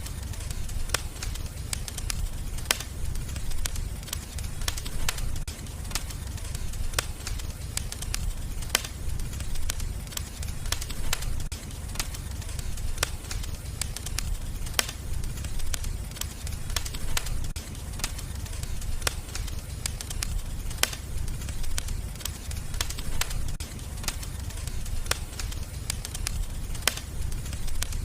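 Wood fire burning in a fireplace: a steady low rumble with frequent irregular crackles and sharp pops of burning wood.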